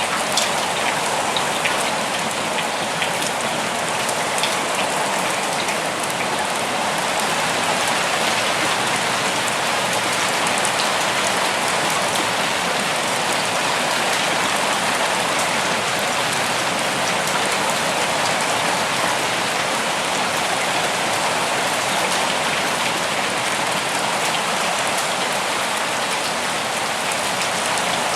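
Steady rain, an even hiss of falling rain with scattered drop ticks on leaves and ground.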